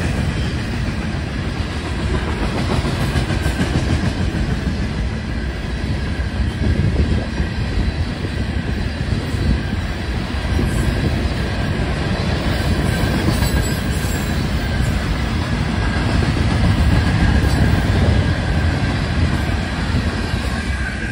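A train's cars rolling past, the wheels rumbling and clacking on the rails in a loud, steady stream that cuts off suddenly at the end.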